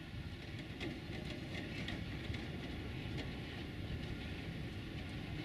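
Freight train wagons rolling past on the rails: a steady rumble of wheels on track, with scattered short clicks in the first half.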